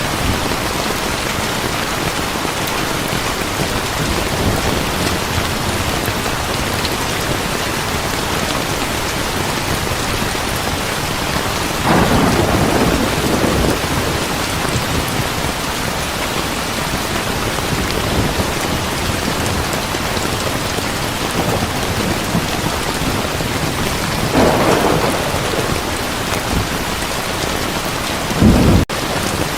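Heavy rain falling steadily, with thunder rumbling three times: a long roll about twelve seconds in, another near twenty-five seconds, and a shorter, sharper clap near the end.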